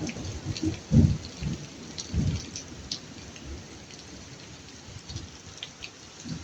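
Steady rain falling, with low thunder rumbles that swell about a second in and again just after two seconds, and scattered raindrop ticks.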